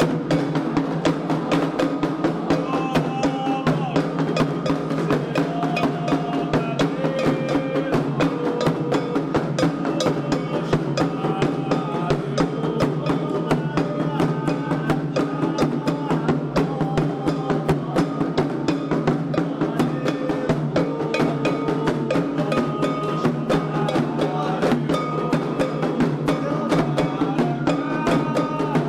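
Candomblé atabaque drums playing a fast, unbroken rhythm for the xirê, with a chanted melody carried over the drumming.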